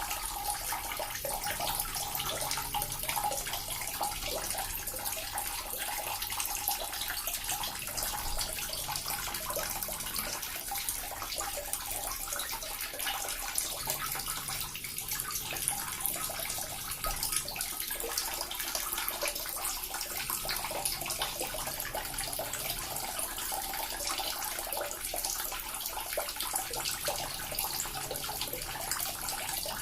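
Small water fountain running steadily, its water splashing and trickling in an even, unbroken stream.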